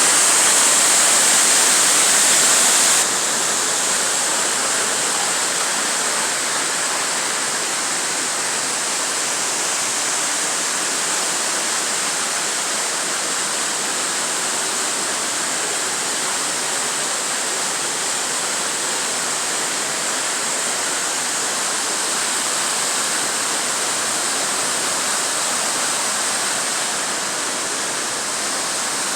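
Waterfall: a steady rush of falling water, louder and brighter for the first three seconds, then dropping abruptly to a slightly softer rush.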